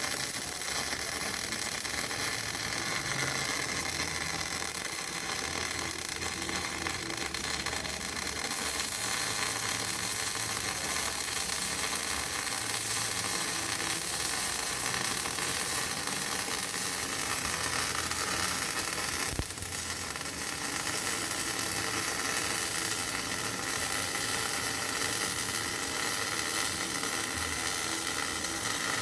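MIG welding arc on steel pipe, a steady crackling sizzle, with a brief break about two-thirds of the way through before it carries on.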